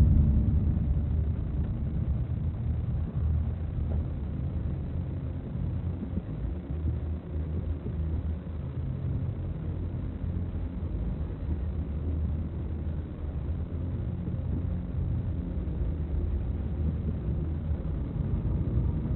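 Steady low rumble of a moving car, engine and road noise, a little louder at the start and then even.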